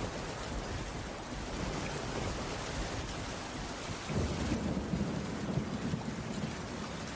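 Steady rain falling on a wooden cabin roof, with a low rumble that swells about four seconds in and lasts a couple of seconds.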